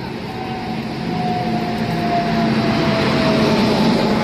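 WAG-9 electric locomotive hauling a passenger train, pulling in and running past close by, with the rumble of wheels on rails growing louder from about a second in. A steady low hum and a slowly falling whine ride over the rumble.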